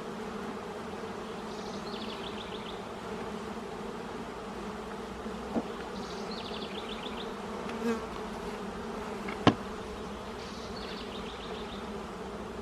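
Honeybees buzzing steadily around an open hive. Three sharp knocks come, the loudest about nine and a half seconds in, and a short high trill repeats every few seconds.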